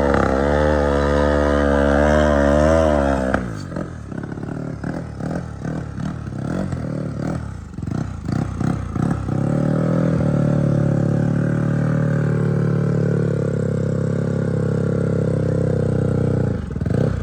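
Motorcycle engine revving, its pitch wavering up and down, then breaking into a few seconds of choppy, stuttering throttle blips before settling into a long steady run from about ten seconds in; it drops off briefly near the end.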